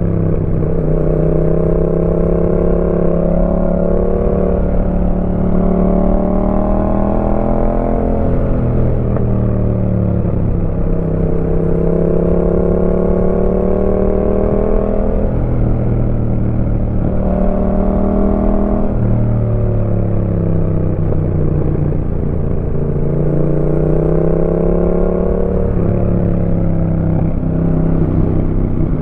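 Yamaha MT-07's parallel-twin engine through an aftermarket Roadsitalia exhaust, heard while riding. The revs climb steadily for several seconds, then fall away as the throttle closes or a gear changes, four or five times over.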